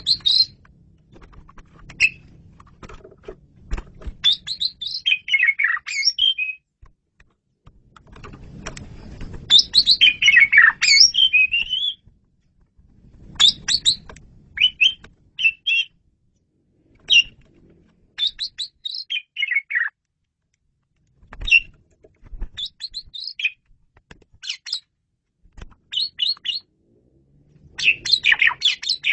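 Asian pied starling (jalak suren) singing: short phrases of whistles and fast chattering notes, broken by pauses of a second or two.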